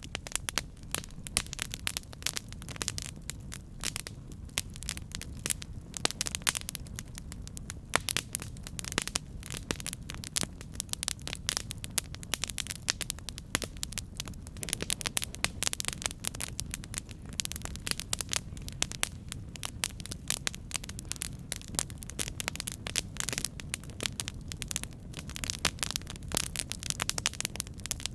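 Campfire burning, with dense irregular crackles and pops from the wood over a steady low rush of flame.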